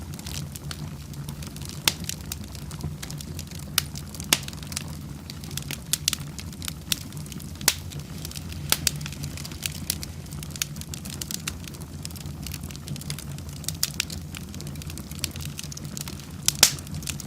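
Wood fire burning in a fireplace: a steady low rumble of the flames, with frequent irregular sharp crackles and pops from the burning wood.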